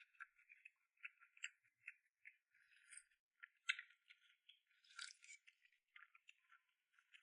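Faint eating sounds of someone chewing and slurping crossing-bridge rice noodles: irregular small clicks and short slurps, with a couple of sharper ticks near the middle.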